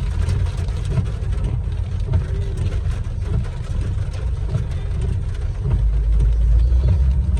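Inside a moving car: steady low engine and road rumble.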